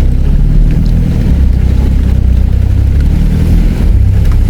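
Four-wheel-drive's engine running steadily at low speed, heard from inside the cabin as a loud low rumble, with a few faint knocks.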